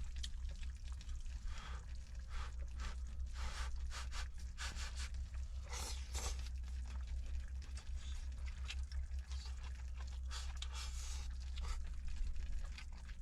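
Scattered scrapes, crunches and rustles of food preparation, irregular and short, over a steady low rumble.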